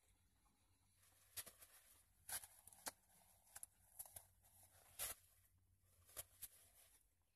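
Near silence, broken by faint scattered clicks and rustles as a man chews a sandwich with dentures and wipes his mouth with a paper napkin.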